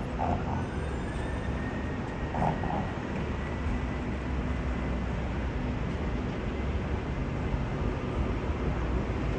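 An electric rail vehicle running over a steady rumble. Its motor whine rises through the first few seconds, then holds at one pitch.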